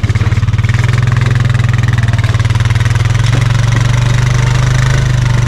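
A vehicle's engine picks up speed as it pulls away, then runs steadily at a moderate pace, its firing pulses plain and even.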